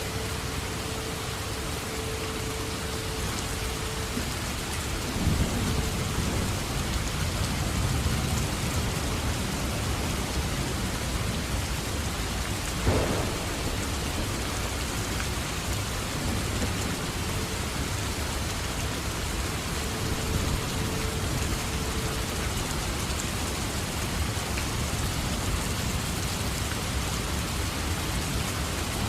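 Steady heavy rain with thunder: a low rumble rolls in about five seconds in, and a sharp thunderclap cracks a little before halfway.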